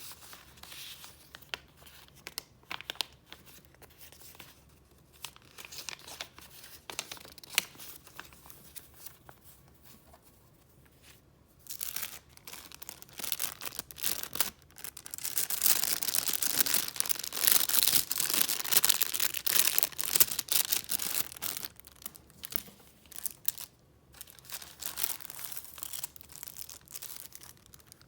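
Paper being handled: light rustles and taps for the first several seconds, then a louder stretch of continuous rustling and crinkling lasting about ten seconds, easing back to lighter rustles near the end.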